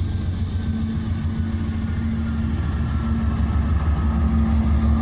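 Steady low engine rumble with a level droning hum, growing a little louder near the end.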